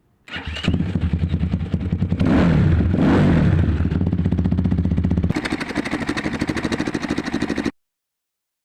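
172FMM single-cylinder four-stroke motorcycle engine, freshly rebuilt with a new crankshaft, piston and cylinder, starting and running. It catches about a quarter second in, is revved up and back down around two to three seconds in, runs on at a lower speed, then cuts off suddenly near the end.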